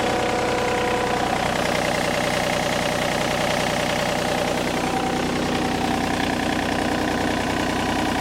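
Yanmar 3TNE84 three-cylinder diesel engine of a John Deere 3235B fairway mower running steadily at an even speed.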